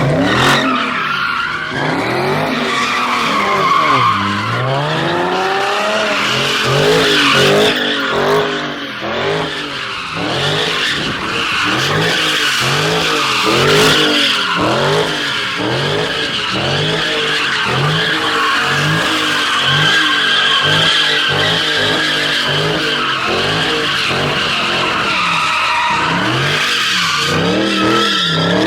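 Cars drifting in tandem: their engines rev up and down again and again, about once a second, over a steady screech of spinning, sliding tires.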